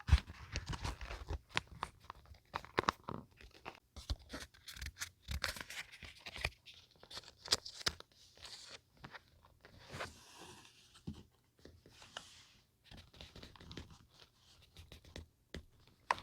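Paper and scrapbooking materials handled close to the microphone: an irregular run of small clicks and taps, with a couple of longer rustles about ten and twelve seconds in.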